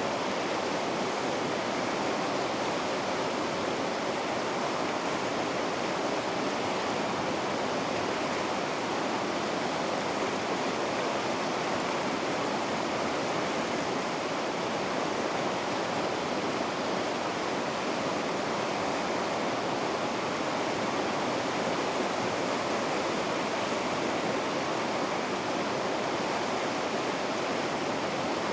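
River rapids rushing steadily: an even, unbroken roar of turbulent water.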